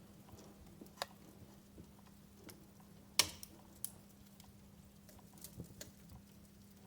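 Wood fire in a fireplace crackling, with irregular sharp pops and snaps; the loudest pop comes about three seconds in, with a small cluster of snaps near the end.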